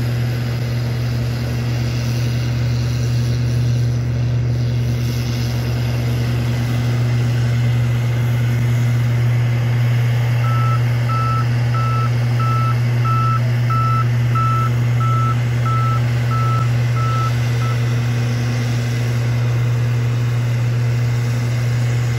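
Heavy snow-removal vehicle's diesel engine running steadily, with its reverse alarm beeping about a dozen times, roughly one and a half beeps a second, partway through as it backs up.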